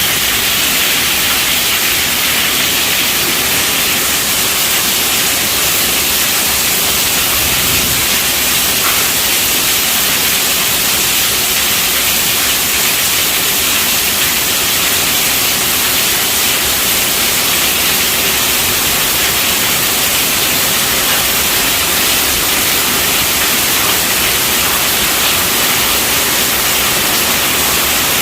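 Heavy rain falling steadily on a tent roof: a dense, even hiss that never lets up.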